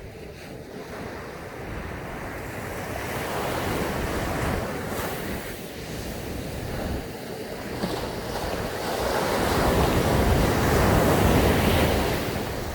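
Sea waves breaking and washing up a sandy beach, with wind on the microphone. The surf swells twice, the second and louder wave building through the latter part and easing off near the end.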